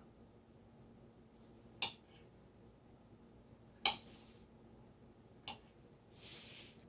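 Three light, sharp clicks of kitchen items being handled, spaced a second or two apart, then a brief soft rustle near the end.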